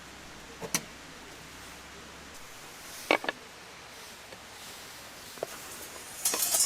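A few light clicks and knocks, spaced a second or two apart, then a short clatter and rustle near the end, like gear being handled.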